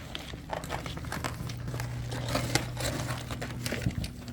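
Rustling and crackling with many small clicks, over a low steady hum.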